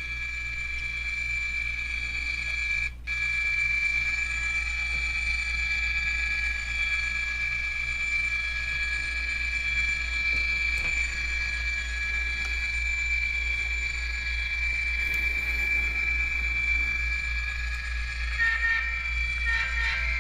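Model train locomotive running along the layout's track on a test run, with a steady low hum under several steady high-pitched whining tones. The high tones drop out for a moment about three seconds in.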